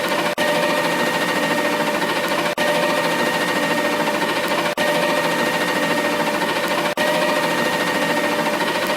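Garbage truck running with a steady mechanical whine held at one pitch, cut by a brief sharp dropout about every two seconds.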